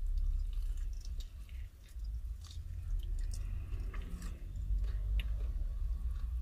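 Close-up chewing and biting of crispy fried chicken wings: scattered small wet clicks and crunches, over a steady low rumble.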